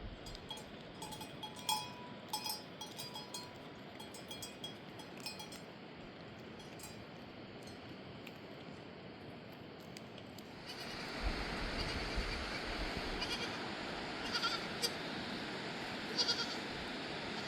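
Livestock bleating a few times over a steady hiss that grows louder about eleven seconds in, with scattered light clicks.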